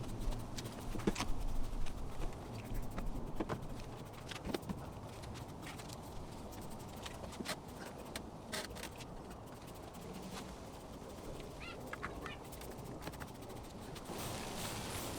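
Quiet outdoor ambience with scattered light clicks and knocks, a few faint bird chirps, and a hiss that starts about a second before the end.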